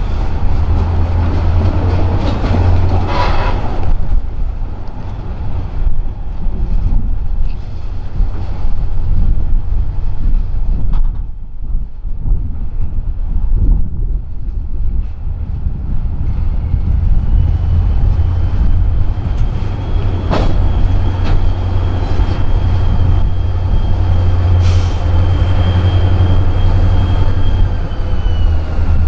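Diesel-hauled freight train running close by with a heavy, steady low rumble. Past the middle, a high steady wheel squeal sets in and holds almost to the end, and two sharp clanks sound during the squeal.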